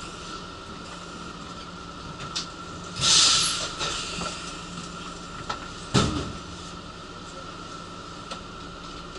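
Inside a Nishitetsu Kaizuka Line commuter train car arriving at its terminus: a steady running hum, a burst of hiss about three seconds in, and a heavy clunk about six seconds in.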